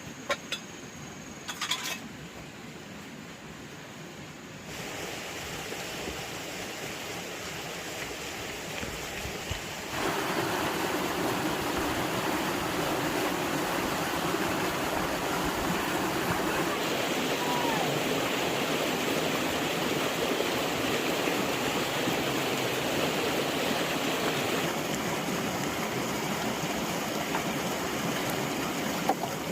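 Running water rushing steadily, like a stream. The rush grows suddenly louder about five seconds in and again about ten seconds in, after a few sharp clicks at the start.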